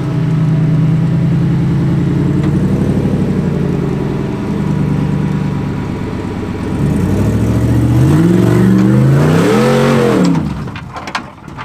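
Off-road Jeep's engine pulling at low revs through a rock climb, then revved hard about seven seconds in, rising to a peak and dropping off sharply just before the end, followed by a few sharp knocks.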